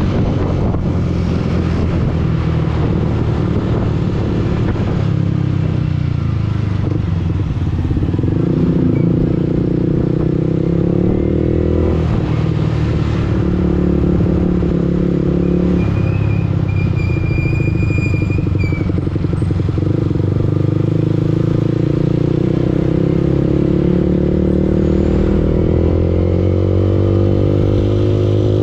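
Yamaha R15 V2 motorcycle's single-cylinder four-stroke engine running under way, its note changing pitch several times with throttle and gear changes, and growing louder about eight seconds in.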